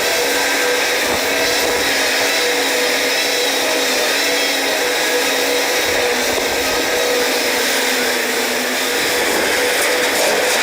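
A machine running steadily under power, a constant rushing noise with a held whine that stays at one pitch.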